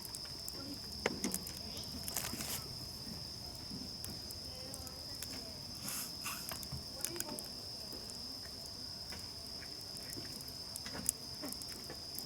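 Steady high-pitched insect trilling, crickets or similar, with scattered sharp crackles and pops from a campfire, the loudest about a second in and near the end.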